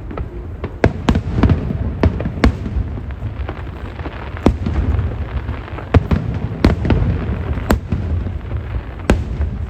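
Aerial fireworks going off in quick succession: a string of sharp bangs and crackles at irregular intervals, several a second at times, over a steady low rumble of bursting shells.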